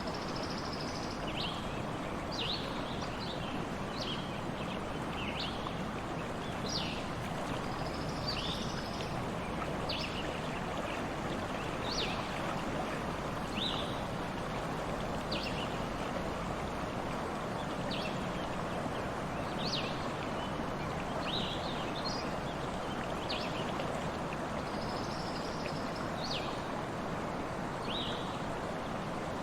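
A stream flowing steadily, with birds chirping over it: short, high calls scattered through, roughly one a second.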